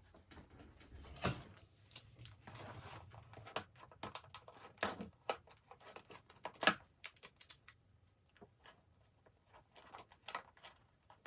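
Scattered light clicks, taps and rustles of hands working with tape and glue dots, peeling and pressing them to fix items in place. The sharpest taps come about a second in and around five and seven seconds in, with a quieter stretch after.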